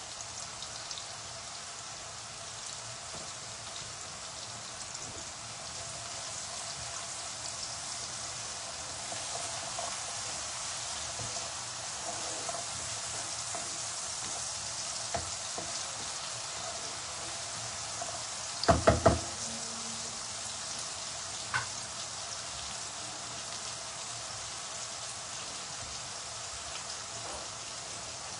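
Oil sizzling steadily in a pan of frying onions and green chillies, with a quick run of three loud sharp knocks about two-thirds of the way through and one lighter knock a few seconds later.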